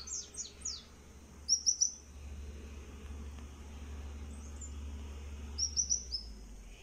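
A small bird chirping in quick runs of short high notes: a run near the start, three at about a second and a half, and three or four again near the end, over a low steady hum.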